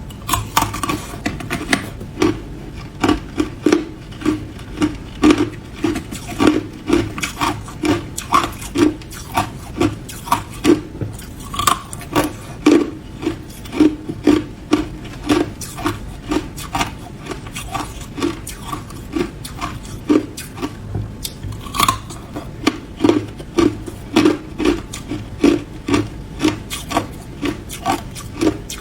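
Ice being chewed: a steady run of crisp crunches, about two a second.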